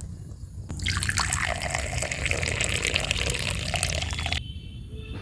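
Hot tea being poured into a cup: a steady splashing pour starts about a second in and stops abruptly about three and a half seconds later.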